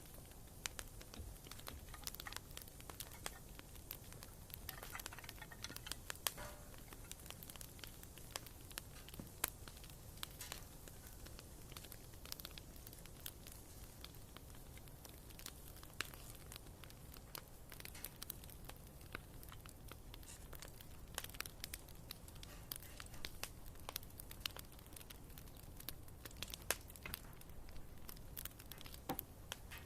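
Wood fire burning in a fireplace, its logs giving off faint, irregular pops and crackles.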